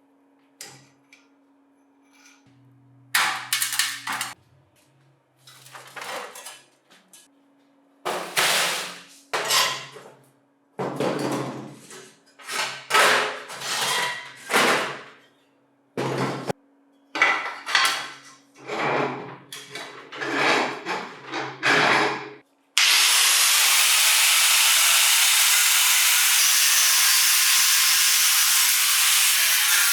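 Hand work on metal parts: irregular knocks and scraping strokes over a faint steady hum. About 23 seconds in, a loud steady hiss starts and keeps going, like air being blasted or blown.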